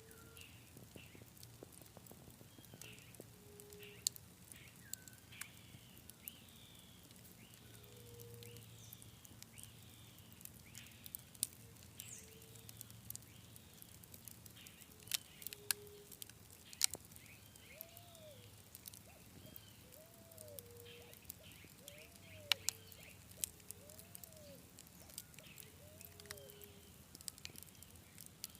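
Campfire crackling, with scattered sharp pops of the burning wood. Repeated chirping calls sound behind it, and toward the end a lower call repeats about once a second.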